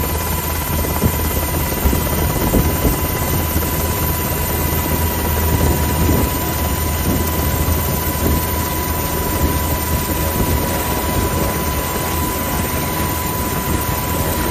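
Coast Guard helicopter running steadily: a loud, even drone of rotor and engine noise with a thin steady high tone over it.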